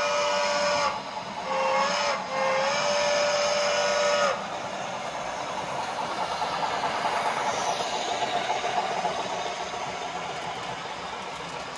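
Steam whistle from the Tsunami 2 sound decoder of an HO scale Santa Fe steam locomotive, played through the model's small speaker: three blasts, long, short, long. Then the steady running sound of the locomotive carries on.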